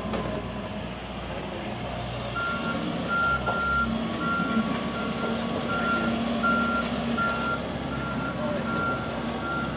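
Heavy diesel machine running, with its motion alarm starting to beep about two and a half seconds in and repeating about twice a second.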